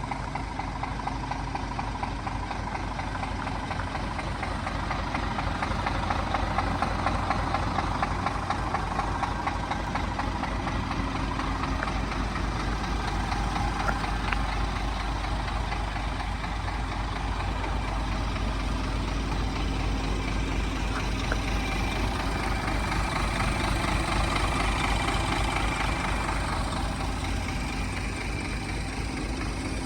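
Scania R500 truck's diesel engine idling steadily.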